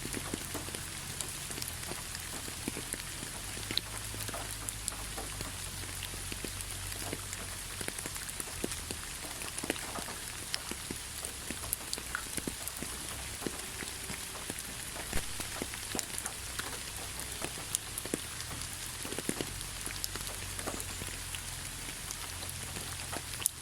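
Steady rain with many separate raindrops pattering on surfaces, irregular sharp drips over a constant hiss and a low rumble.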